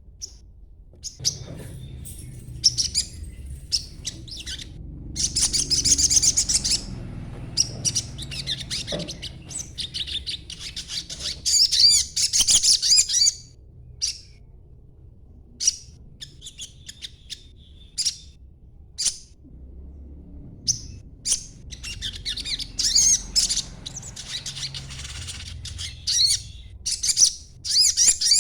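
Young male crimson sunbird (sogon), still in green plumage, chattering in high-pitched twittering bursts with single sharp chips between them, over a low background rumble.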